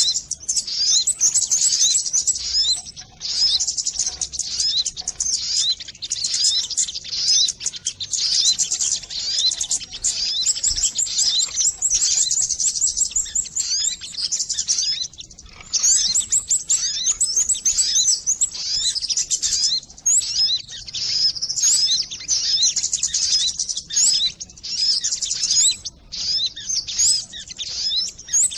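Recorded birdsong of the bird called 'sogon' in Indonesia, played as a trapping lure: dense, rapid, high-pitched chirps and trills that keep going with only brief pauses.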